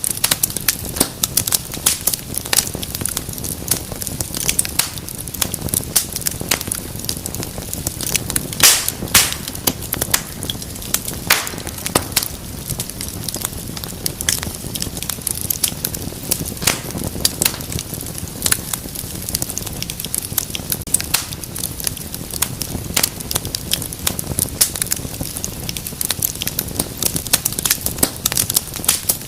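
Wood fire in a fireplace crackling and popping continuously over a low rush of flame, with a few louder pops about a third of the way in.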